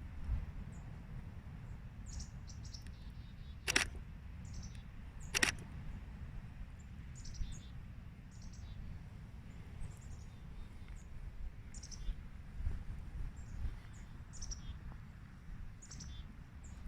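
Small birds chirping: many short, high calls scattered throughout over a low steady rumble. Two sharp clicks stand out, about four and five and a half seconds in.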